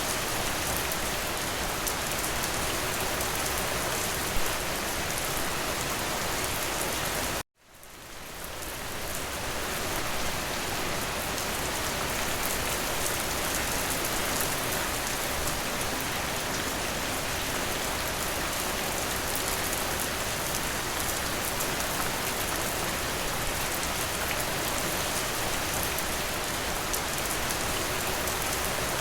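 Steady rain falling, an even hiss of drops. About seven seconds in it cuts out abruptly to silence and fades back in over a couple of seconds, a loop or edit seam in the recording.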